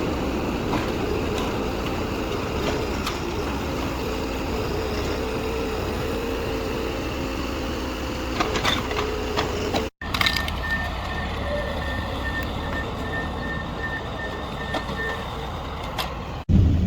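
Heavy diesel logging machinery running steadily. After a cut about ten seconds in, a high electronic beeping repeats for several seconds over the engine.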